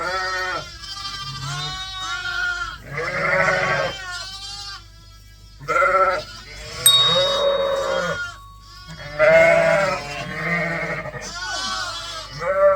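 Ewes and lambs bleating, many calls overlapping one after another, with a short lull about five seconds in.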